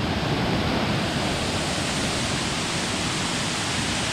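Waterfall rushing: a steady, loud, even hiss of falling water.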